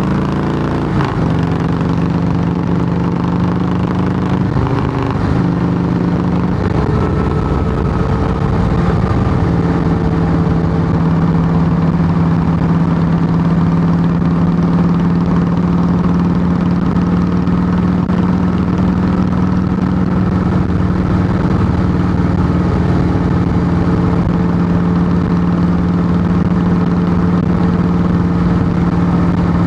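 Harley-Davidson Softail Heritage Classic's air-cooled Twin Cam V-twin running loud through Samson fishtail true-dual exhaust pipes. The engine note shifts pitch a few times in the first several seconds, then holds a steady note.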